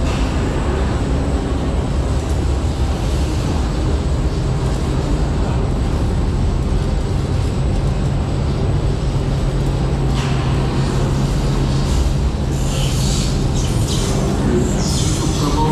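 Voltron Nevera roller coaster train running on its track: a steady rumble of wheels and track with a low hum through the middle. There are hissing rushes near the end.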